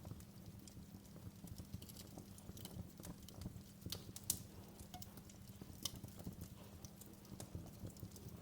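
Wood fire crackling in a fireplace: irregular sharp pops and snaps over a low, steady rumble, with the loudest pop a little past four seconds in.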